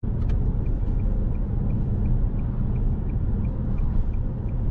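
Steady road and engine rumble inside a moving Nissan Rogue SUV, with a faint, even tick about three times a second.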